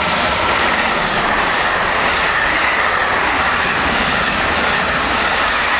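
Passenger train passing close by: a steady loud rush of wheels on rails with a high tone running over it.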